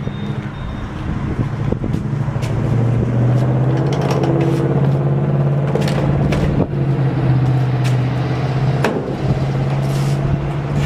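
Truck engine running steadily, growing louder about two to three seconds in and holding, with a few sharp knocks and clicks over it.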